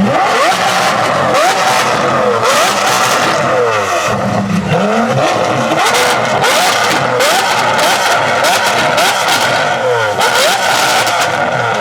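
Supercar engines revving over and over in quick blips, the pitch climbing with each blip, with sharp exhaust crackles in between.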